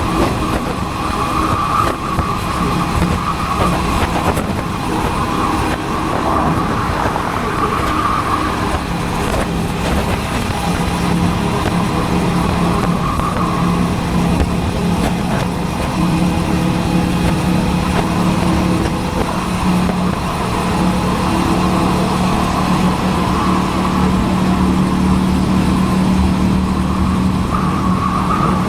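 Motorcycle engine running steadily under way, heard from a helmet-mounted camera over rushing road and wind noise; its low note settles and holds from about a third of the way in.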